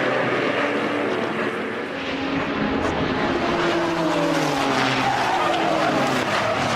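Race car engines running at speed, their pitch rising and falling.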